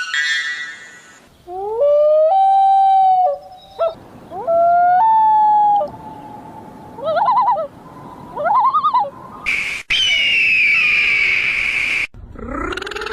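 A run of animal calls, one clip after another: two long calls that rise and then hold a steady pitch, two short warbling calls, then a higher, rougher call that cuts off suddenly before another rising call starts near the end.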